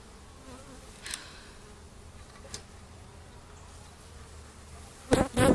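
Honey bees buzzing faintly around an open hive, with a couple of light clicks, then two loud bumps close together near the end.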